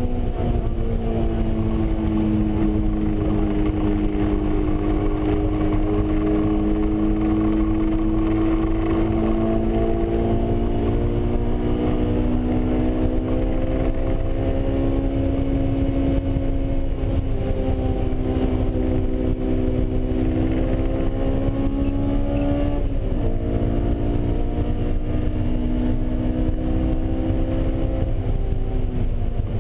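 Honda S2000's 2.0-litre four-cylinder engine heard from inside the cabin on track, its pitch climbing slowly as the car accelerates, then dropping sharply with an upshift a little after twenty seconds. The pitch holds after the shift and falls again near the end as the car slows, over steady road and wind noise.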